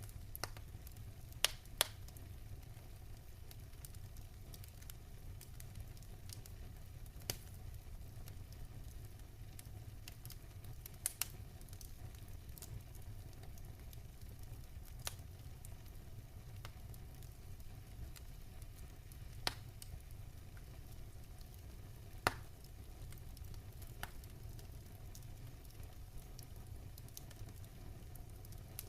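Wood fire crackling in a fireplace, with sharp, irregular pops every few seconds, over a steady soft hiss of rain and a low rumble.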